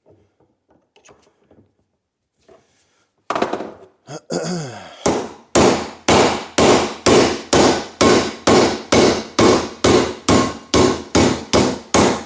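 Hammer blows on steel, driving out an old pin from a Volvo 142 door hinge. A few light clicks come first, then a single heavy strike. About five seconds in, a steady run of blows starts at roughly two and a half a second, each ringing briefly.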